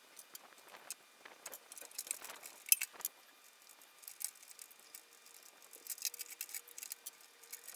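Scattered light metallic clicks and clinks of tools and metal parts being handled during washing machine disassembly, with one sharper click a little under three seconds in.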